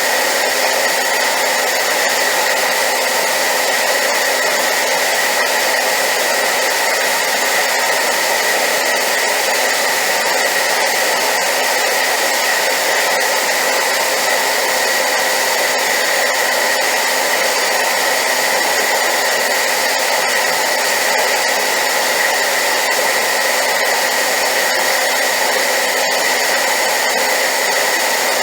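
Hair dryer running steadily on high power: a loud, even rush of air with a steady high whine in it, unchanging throughout.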